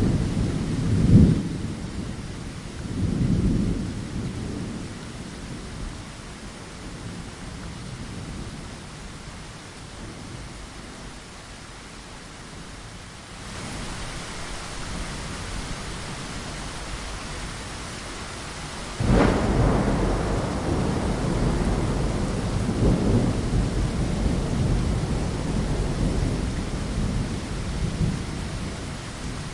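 Steady rain against a window with thunder. Low rumbles come in the first few seconds, and the rain grows heavier a little before halfway. About two-thirds of the way in a sudden thunderclap breaks, the loudest sound here, and rolls on for several seconds.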